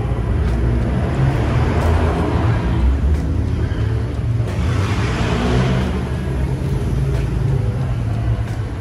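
Car engines and exhausts running at a garage car meet: a steady low rumble, with a louder swell from a car's exhaust about five seconds in.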